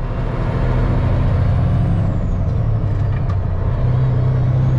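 Semi truck's diesel engine running with a steady low drone, its note rising a little about four seconds in.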